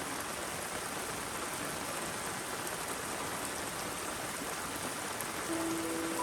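Steady rain and rainwater running down in a stream, an even rushing hiss. Near the end a few soft held musical notes come in over it.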